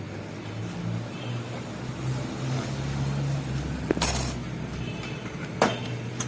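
Two sharp metallic clinks, about four and five and a half seconds in, as metal parts of a vacuum cleaner motor are handled during reassembly, over a low steady hum.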